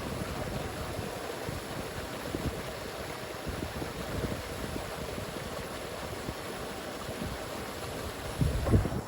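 Steady rush of a river running high after heavy rain. A brief louder low buffeting, like wind or handling on the microphone, comes near the end.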